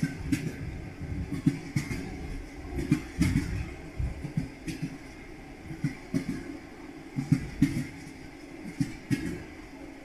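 Train wheels clattering over rail joints: groups of knocks about every second and a half over a steady low rumble of a moving train.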